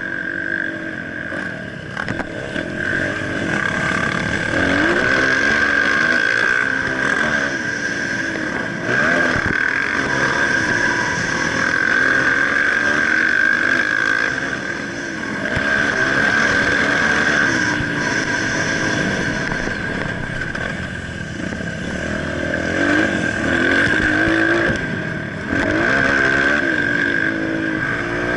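Motocross dirt bike engine revving up and down over and over as it rides, with a steady high-pitched whine throughout.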